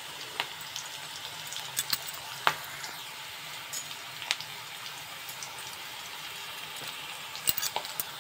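Sliced onions and green chillies sizzling in hot oil in a kadai: a steady sizzle with scattered sharp pops and crackles.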